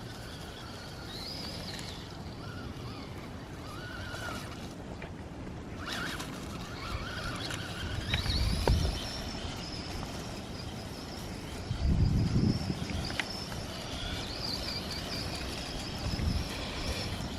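Electric motor of a 1:18 4WD RC monster truck whining, rising and falling in pitch with the throttle and climbing sharply once about six seconds in. Several short low rumbles come through in between.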